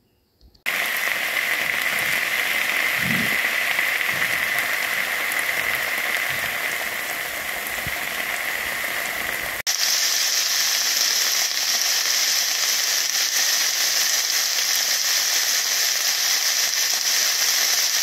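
Diced onions and green peppers sizzling in a hot frying pan. The sizzle breaks off for an instant about ten seconds in and comes back brighter, now with diced steak frying among the vegetables.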